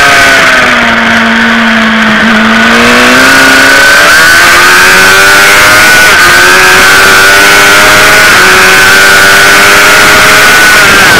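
Sport motorcycle engine heard from an onboard camera: the revs sit low about a second or two in, then climb hard, with brief drops in pitch near four, six and eight seconds as it shifts up through the gears.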